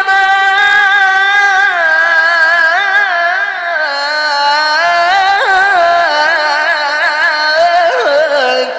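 A male Quran reciter (qari) chanting a long, high-pitched melismatic phrase. The voice is held high, then steps lower with quick wavering turns.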